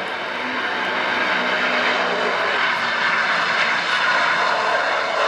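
Airliner engines running, a steady rushing noise that grows slightly louder.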